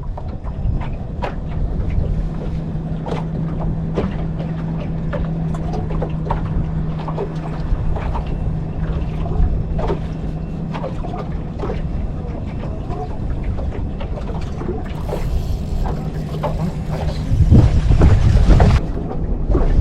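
Steady low hum from the fishing boat's motor, with scattered clicks and knocks of gear being handled. Wind buffets the microphone, loudest for about a second near the end.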